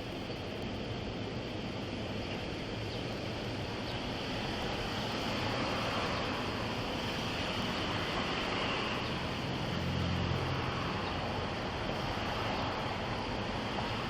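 Steady rushing outdoor noise picked up by a body-worn camera's microphone, with a short low hum about ten seconds in.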